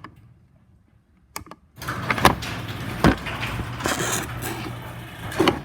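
Near silence at first, then from about two seconds in a LiftMaster garage door opener running and moving the door: a steady mechanical rumble and rattle with a few sharp knocks.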